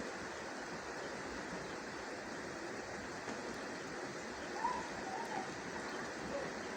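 Steady rain falling, an even hiss of drops. A couple of brief chirps come through about two-thirds of the way in, which fit the small birds the video promises.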